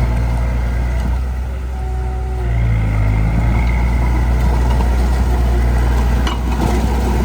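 Heavy diesel engine of earth-moving machinery running steadily, easing off slightly in level about a second in and picking back up with a short shift in pitch around three seconds. A single knock sounds a little after six seconds.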